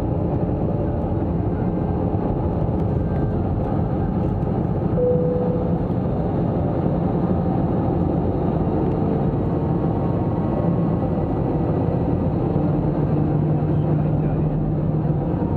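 Steady low cabin noise inside an Airbus A321-200 airliner: engine and airflow noise heard from a passenger seat, unchanging throughout.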